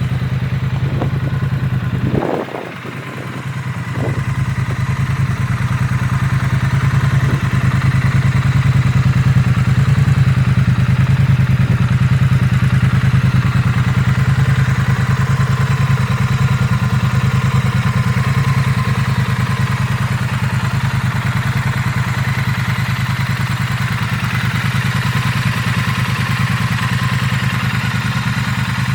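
Triumph Street Twin's parallel-twin engine idling steadily, with a low, even hum and some mechanical clatter. It is briefly quieter about two seconds in.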